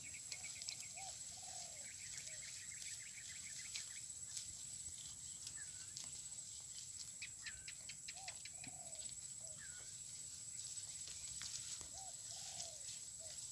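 Birds calling in open country: a low three-note call repeated three times, a few short rapid trills near the start and some brief higher calls. A steady high-pitched whine runs underneath, with faint scattered clicks.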